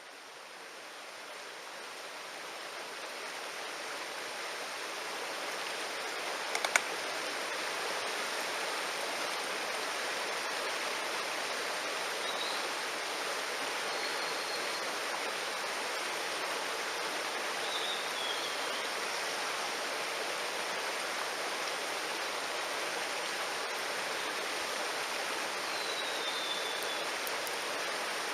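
Mountain stream rushing steadily, fading in over the first few seconds. A single sharp snap comes about seven seconds in, and a few faint, short, high calls are heard now and then over the water.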